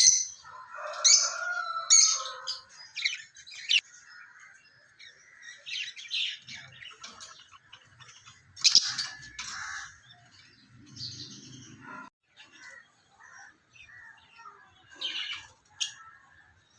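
Lovebirds chirping: short, sharp high calls in clusters, coming thickest at the start and again about halfway through.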